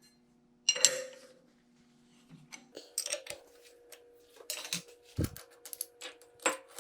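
Steel parts being handled: one ringing metal clink about a second in, then a run of light metallic clicks and taps over a faint steady hum.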